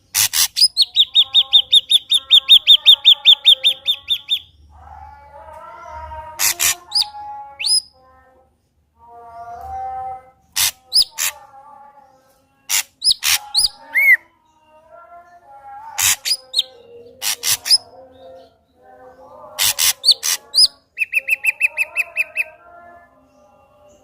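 Ashy drongo singing a varied song: a fast run of repeated notes, about five a second, for the first four seconds, then sharp loud notes with softer low warbles between them, and a shorter run of repeated notes near the end.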